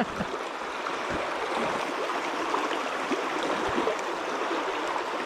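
River water running steadily over rocks, a continuous rushing with faint gurgles.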